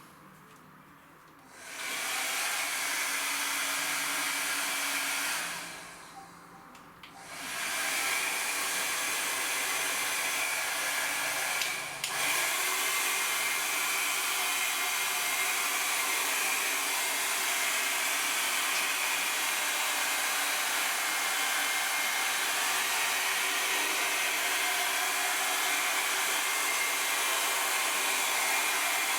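Heat gun running with a steady blowing hiss as it warms sticker vinyl on a motorcycle wheel. It switches on about two seconds in, cuts out for a couple of seconds around six seconds in, comes back, dips briefly near twelve seconds, then runs steadily.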